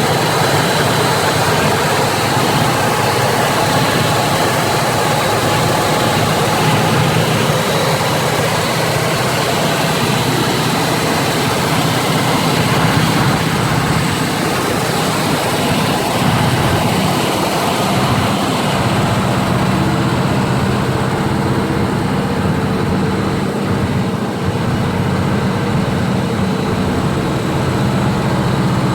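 Pontiac Firebird Formula 400's 6.5-litre V8 engine running steadily.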